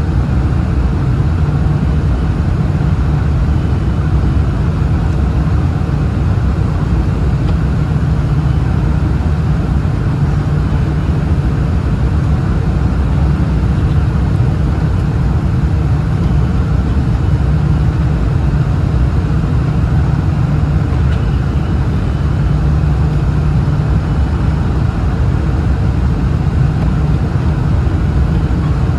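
Steady cabin noise inside a Boeing 747-400ER: a low, even rumble of engine and airflow heard from the economy cabin.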